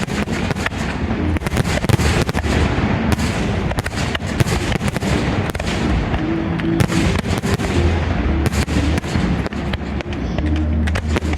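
Fireworks display: a dense, continuous barrage of bangs and crackling shell bursts in quick succession.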